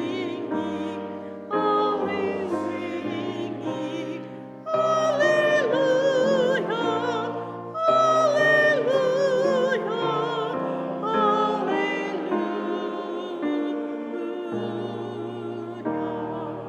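A vocal ensemble singing a sacred song with piano accompaniment. The voices are sung with vibrato in phrases that swell at the start of each line and grow softer toward the end.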